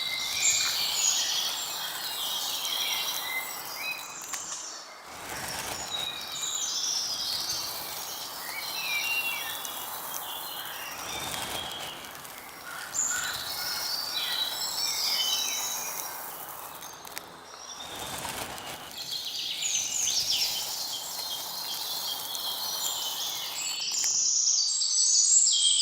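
Many birds chirping and calling over outdoor background noise, the sound dropping out briefly a few times.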